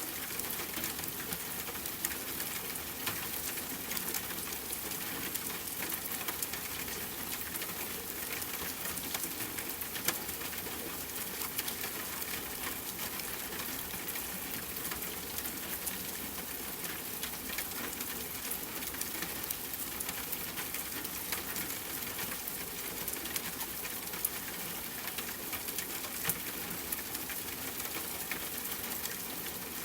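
Steady rainfall hiss with a wood fire crackling over it: frequent small snaps and an occasional louder pop.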